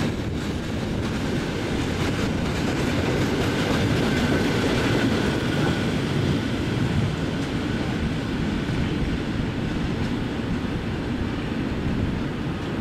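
Train of railway tank wagons rolling past close by: a steady rumble of steel wheels on the rails, fading slightly near the end as the train draws away.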